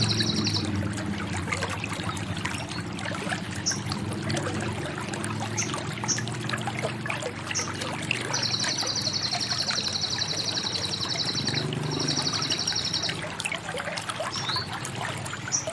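A sunbird sings a high, very rapid trill imitating the cililin, in two long runs of several seconds each about a third of the way through, with short chirps between. Water trickles and pours steadily underneath.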